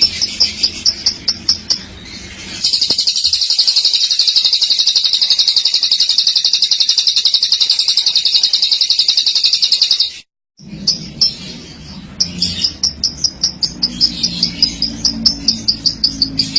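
Lovebird's long, rapid rolling trill (the 'ngekek'), held for about seven seconds and then cut off suddenly. Before and after it comes a regular high chirping at about four pulses a second.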